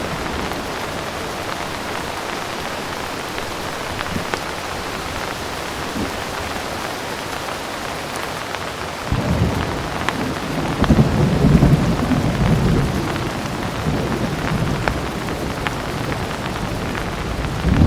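Steady heavy rain falling, with a low thunder rumble that starts suddenly about halfway through, swells for a few seconds and rolls away, and another rumble building near the end.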